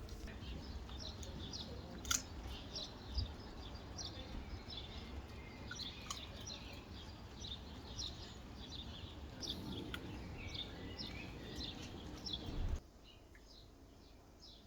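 Birds chirping and singing, many short overlapping calls over a low background rumble, with a couple of sharp clicks early on; the whole sound drops abruptly to a quieter hush near the end.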